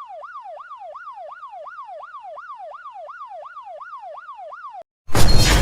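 Electronic siren in a fast yelp, sweeping up and down about three and a half times a second, which cuts off shortly before the end. It is followed at once by a sudden loud crashing burst.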